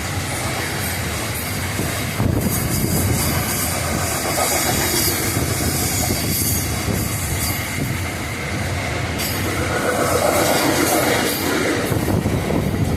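Freight train wagons rolling past on the rails, a continuous clattering rumble of steel wheels on track that grows louder and hissier about two seconds in.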